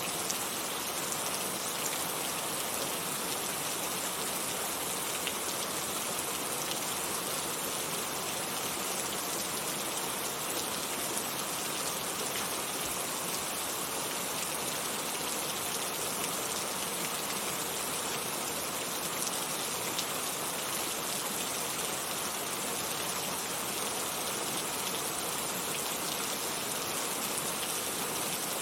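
Heavy rain falling steadily, a dense even hiss of rain with fine patter of drops, no let-up or change.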